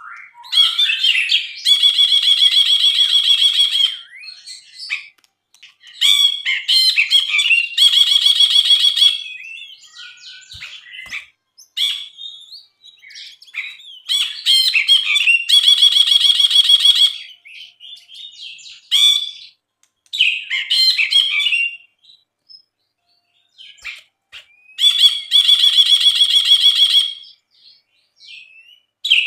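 Brinji, a bulbul, singing: phrases of varied chirps, four times running into a long, rapid buzzing trill of a second or two.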